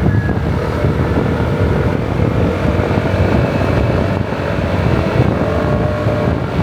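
Motor scooter riding along at steady speed, its engine drone mixed with heavy wind rumble on the microphone.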